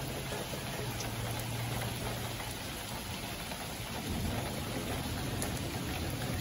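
Steady rain hissing down during a thunderstorm. A low rumble of thunder swells in about four seconds in.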